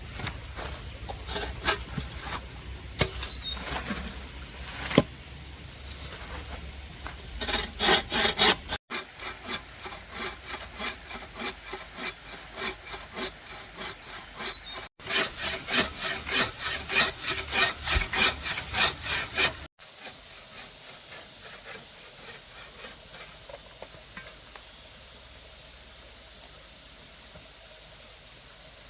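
Hand saw cutting wood in quick back-and-forth strokes, about three a second, in several stretches. In the last part the sawing stops and only a steady, quieter hiss with a thin high tone remains.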